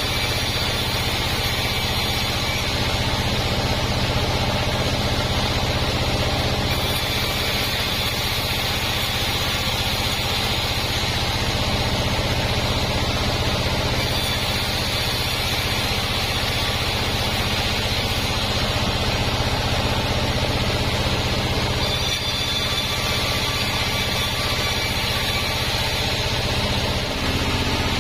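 Band sawmill machine running steadily: a constant motor hum with the band saw's higher noise shifting every few seconds.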